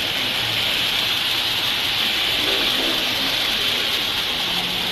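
Steady rushing noise of a moving passenger train heard from inside a carriage at the window: running noise and air rush with an even hiss and no distinct beats.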